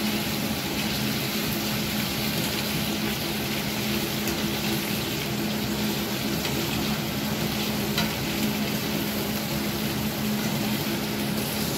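Soya chaap pieces frying in hot fat in a pan with a steady sizzle, stirred now and then with a ladle. A steady low hum runs underneath, and there is a small click about eight seconds in.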